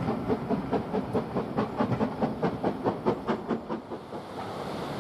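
Steam train running past with a quick regular beat of about five strokes a second, fading away about four seconds in.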